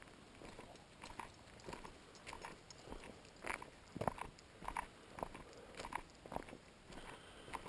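Footsteps crunching at a walking pace, a short crunch roughly every half second to second.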